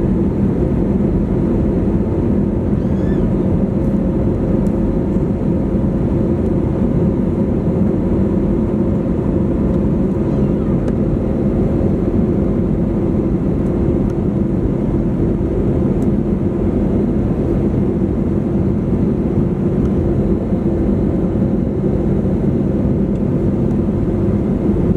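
Steady cabin noise inside an Airbus A320neo climbing after takeoff: the drone of its Pratt & Whitney PW1100G geared turbofan engines and the rush of airflow, with a few steady hum tones running through it.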